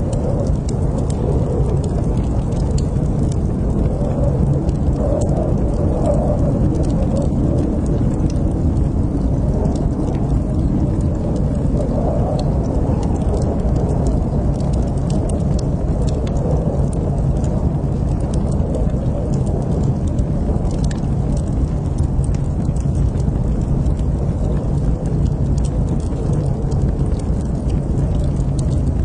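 Wood fire burning in a fireplace: a steady low rumble of flames with scattered small sharp crackles and pops throughout.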